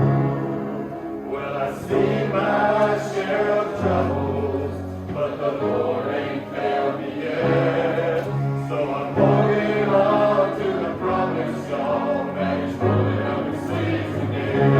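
High-school choir of 11th and 12th graders singing a song in parts, with sustained low notes underneath.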